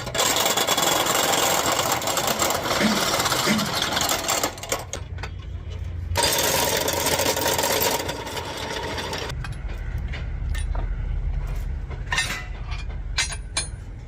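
Workshop machinery noise: two long stretches of loud, dense mechanical noise, the second with a steady whine, then a low engine rumble with scattered sharp metallic clinks and knocks.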